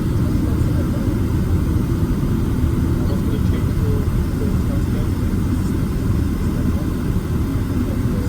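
Steady low rumble of a Boeing 767-300ER's engines and rushing air, heard from inside the passenger cabin.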